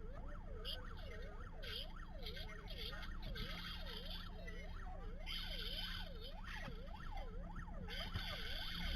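Emergency vehicle siren in a fast yelp, its pitch rising and falling about twice a second, over a steady low vehicle rumble.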